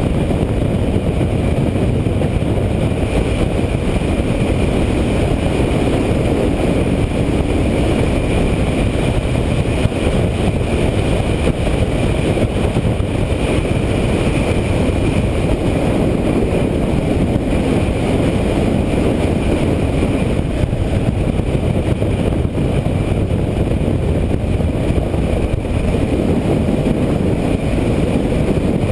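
Steady rush of wind buffeting a helmet-mounted camera, mixed with the running of a Kawasaki KLR650 single-cylinder motorcycle at an even cruising speed. The noise holds level throughout, with no revving or gear changes standing out.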